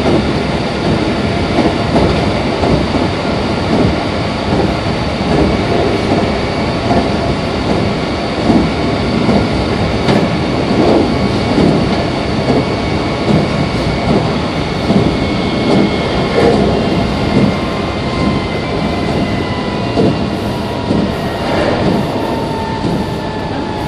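Meitetsu 2300 series electric train running, heard on board: a steady rumble with rhythmic wheel clatter over the rails. Near the end, a whine slides down in pitch as the train starts to slow.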